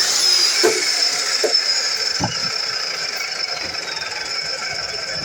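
DeWalt miter saw's motor running with a high whine and hiss that slowly fades, with a few light knocks in the first two seconds.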